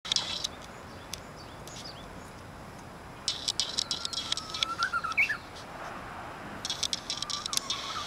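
Japanese bush warbler singing its 'ho-hokekyo' song: a long steady whistle that breaks into quick rising notes, heard once in full and beginning again near the end. Bursts of a higher, rapid ticking chatter come and go with it and are the loudest sound.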